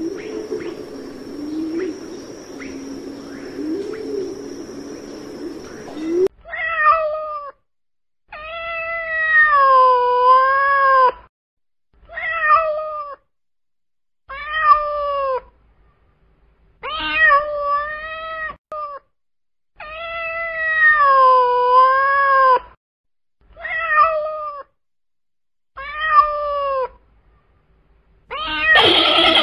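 A white pigeon cooing low and soft for about six seconds, then a cat meowing eight times with silence between, some meows short and some long and drawn out, dipping in pitch and rising again. A different, louder animal call begins just at the end.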